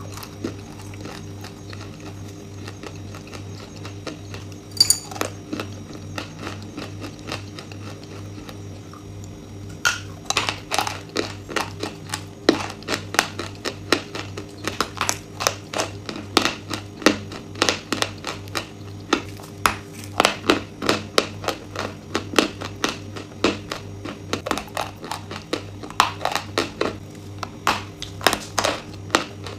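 Close-miked crunching and chewing of hard, brittle food, a rapid run of sharp crunches from about ten seconds in, after a single sharp click around five seconds. A steady low electrical hum sits underneath throughout.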